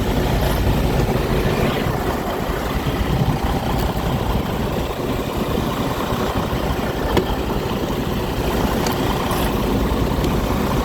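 Semi truck's diesel engine idling steadily, with one sharp click about seven seconds in.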